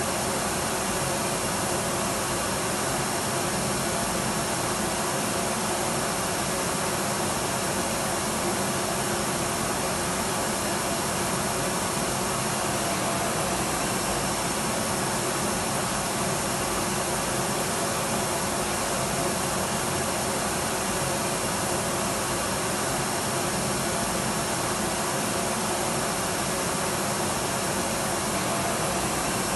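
Electric vacuum cleaner running steadily: an even motor-and-airflow rush with a faint high steady tone, unchanging throughout.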